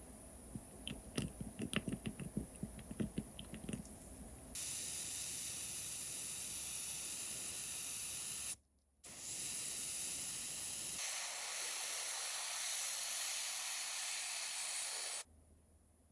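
A run of small clicks and taps, then a loud, steady spraying hiss in two long bursts with a short break between them, cutting off abruptly.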